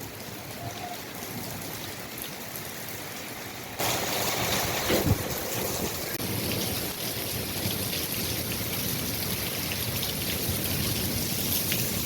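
Rain falling with a steady hiss of drops, getting abruptly louder about four seconds in. A brief thump about five seconds in.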